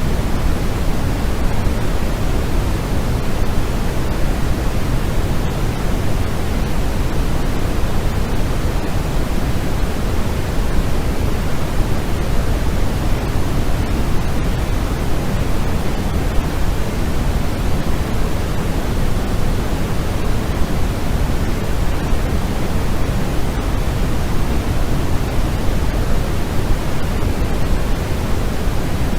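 Continuous generated noise for sleep masking: a steady, even hiss weighted toward the low end, closer to pink noise than pure white noise.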